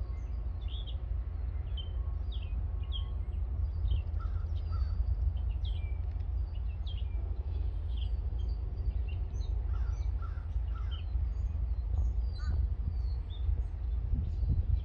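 Many birds chirping and calling in quick succession, over a steady low rumble.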